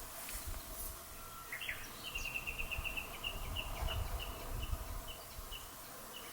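A songbird calling: a short note, then a run of repeated high notes that start rapid and slow down, spacing out over about four seconds, over a low rumble.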